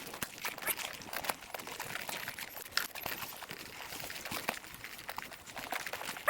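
Bicycle rolling over a rough dirt trail: irregular crunching and clicking from the tyres and the rattling bike.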